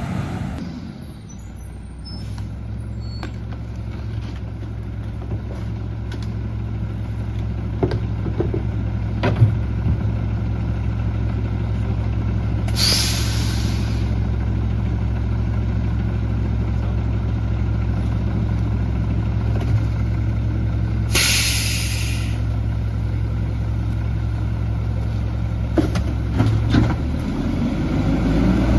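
Garbage truck's diesel engine idling steadily, with two short hisses of air brake release, one about 13 seconds in and another about 21 seconds in, and a few light knocks.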